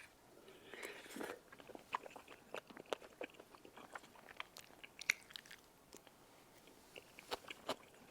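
A person chewing a loaded mouthful of tteokbokki (spicy rice cakes) with cheese, close to the microphone: many short, irregular mouth clicks and smacks.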